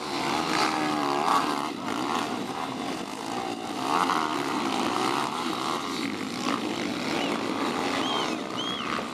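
Several pit bike engines racing together, overlapping, their pitch rising and falling as the riders rev and ease off.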